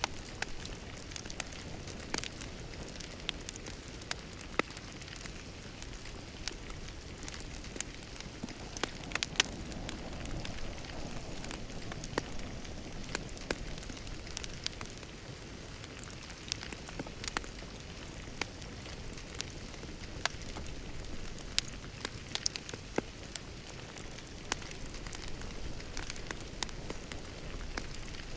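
Wood fire crackling, with irregular sharp pops and snaps over a steady low rush of burning.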